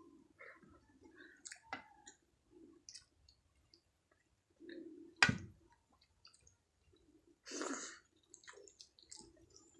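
Close-up eating sounds: soft chewing with small wet mouth clicks. A single sharp knock about halfway through, the loudest moment, and a short louder rush of noise a couple of seconds later.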